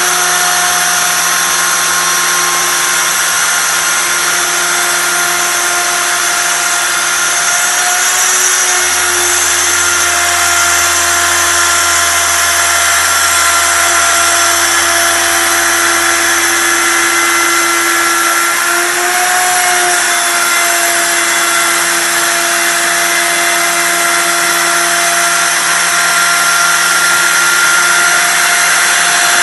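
CNC wood-carving router's spindle running steadily as it mills wood: a high whine over a wide hiss, dipping slightly in pitch twice as the cutting load changes.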